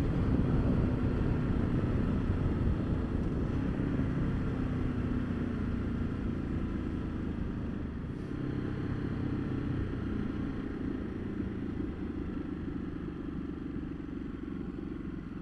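Ducati Multistrada 1200's V-twin engine running under way, with wind and road noise, the sound easing off gradually.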